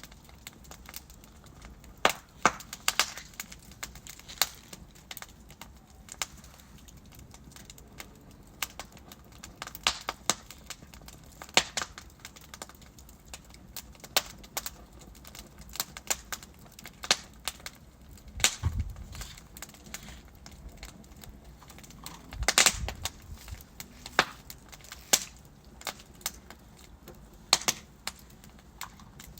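Wood fire crackling: irregular sharp pops and snaps from burning logs over a low steady hiss, with a few heavier pops and settling thuds about two-thirds of the way in.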